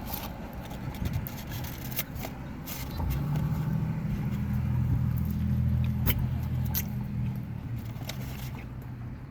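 A car's engine hum swells over a few seconds and fades away, like a vehicle passing close by. Scattered short clicks and crinkles run over it, from a sandwich and its wrapper being handled and bitten.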